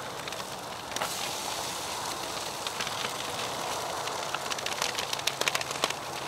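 Sausages frying in butter in a foil Jiffy Pop pan on a portable butane stove, sizzling, as frozen hash browns are poured in from a bag. The sizzle grows stronger about a second in and turns busier and more crackly from about four seconds in.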